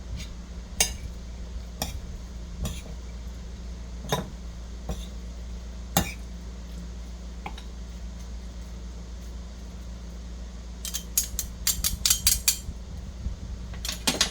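Utensils tapping and clinking against dishes: single taps spaced about a second apart, then a quick run of clinks near the end.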